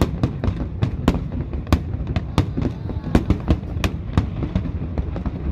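Aerial fireworks display: a dense, irregular run of sharp bangs and crackles, several a second, over a continuous low rumble of bursts.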